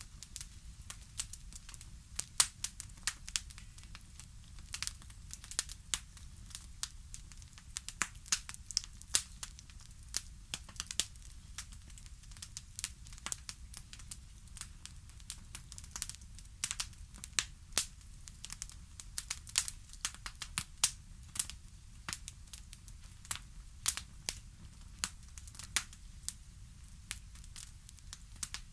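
Fireplace fire crackling: irregular sharp pops and snaps, often several a second, over a steady low rumble.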